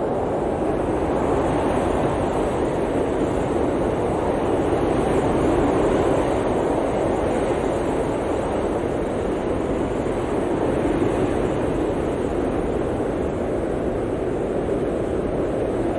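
Blizzard wind blowing steadily, a dense rushing noise that swells slightly around the middle and eases again.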